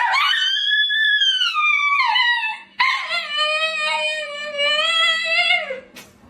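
A dog howling twice. The first howl rises and then slides down; the second is longer and steadier, wavers slightly and drops at the end.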